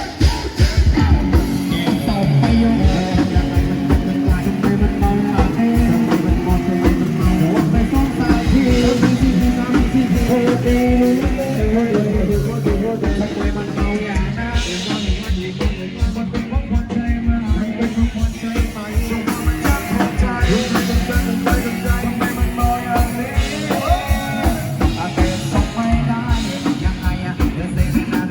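Loud Thai procession band music with a fast, steady drum beat and singing.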